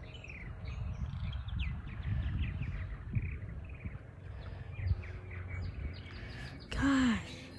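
Birds chirping: a long run of short, quick, downward-sliding chirps, over a low rumble.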